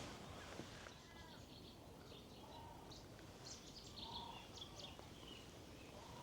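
Faint bird calls from the reedbed: scattered short, high chirps, busiest around the middle, with a few lower calls in between, over a quiet background hiss.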